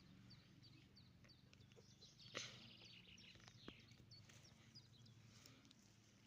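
Near silence with small birds chirping faintly and repeatedly over a low steady hum, and one soft click about two and a half seconds in.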